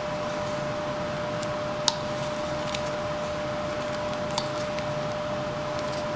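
Carving knife cutting into basswood, with a sharp click about two seconds in and a smaller one past four seconds, over a steady background hum and hiss.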